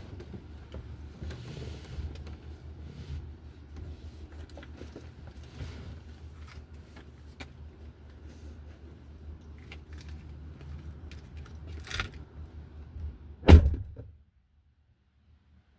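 Low steady hum of a car's engine running, heard from inside the cabin, with small clicks and rustles. A sharp knock about twelve seconds in and a loud thump a second and a half later, then the sound cuts off.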